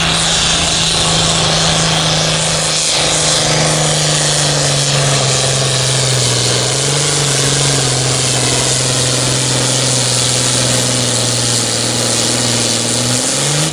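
Pulling-tractor engine running hard at high revs, loud and steady. Its pitch drops about three seconds in and holds lower.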